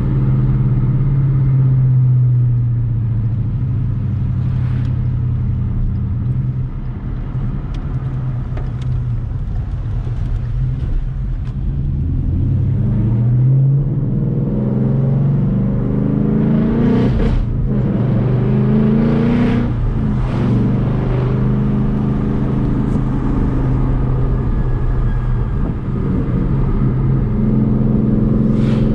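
Ford Mustang GT's V8 engine driving: running steadily, easing off, then pulling hard with two quick climbs in pitch, each cut off by a drop at a gear change, before settling back to a steady cruise.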